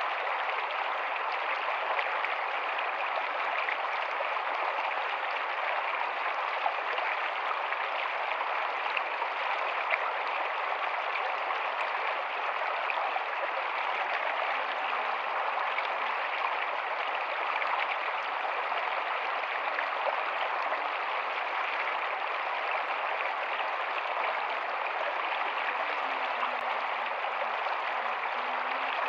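Rocky stream running, a steady even rush of water over stones.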